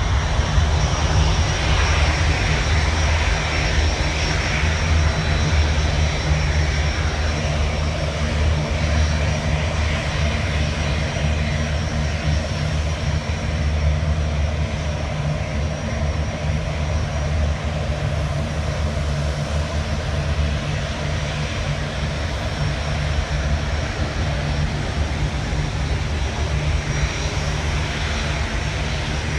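Aircraft engines running with a steady, loud rumble and a faint high whine, easing off slightly over half a minute.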